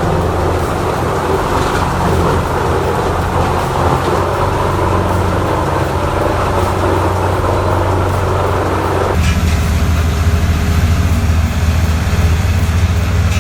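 Heavy land-clearing machine's engine running steadily, a loud low drone with a rough mechanical noise above it. About nine seconds in the sound changes abruptly, the deep drone stronger and the upper noise thinner.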